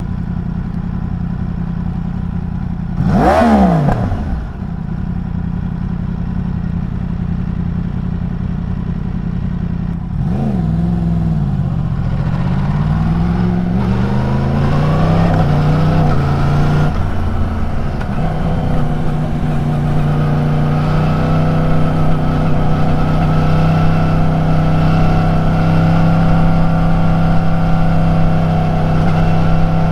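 Yamaha YZF-R1's crossplane inline-four running. It idles steadily, then is given one sharp throttle blip about three seconds in. A second rev comes around ten seconds, the engine pitch climbs and dips a few more times, and from about eighteen seconds it holds a steady note that rises slowly.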